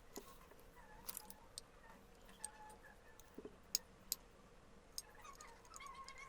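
Quiet, scattered light clicks and ticks of small metal parts being handled, at irregular intervals, with a few sharper ticks about a second apart near the middle.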